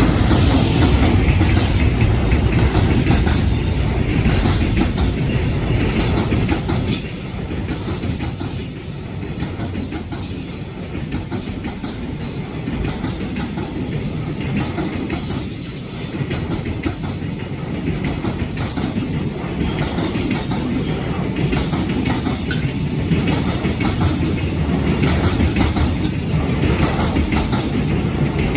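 Freight train hauled by a former Cassiopeia electric locomotive, running past with a steady heavy rumble and the wagon wheels clattering over the rail joints.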